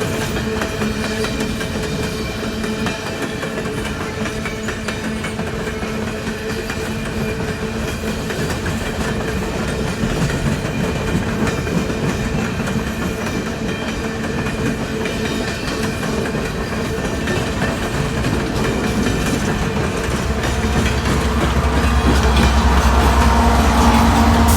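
Coal train's hopper cars rolling past, wheels clicking over the rail joints over a steady ringing hum. A deeper low rumble builds over the last few seconds.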